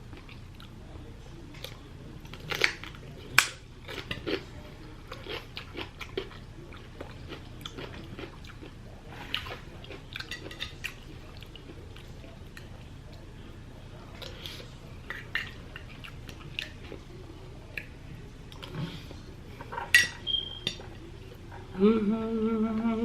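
Close-miked eating: chewing and crunching of food, with scattered clicks of cutlery against dishes and a few sharp louder clicks.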